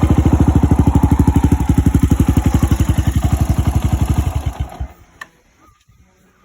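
Suzuki Grasstracker Big Boy's air-cooled single-cylinder engine idling with an even, steady beat, then shut off about four and a half seconds in and dying away. A single click follows.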